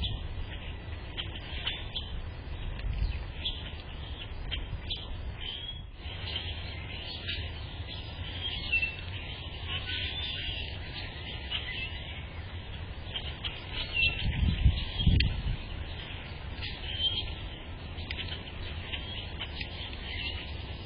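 Small birds chirping, many short high chirps scattered throughout over a low rumble, with a couple of louder low thumps about fourteen to fifteen seconds in.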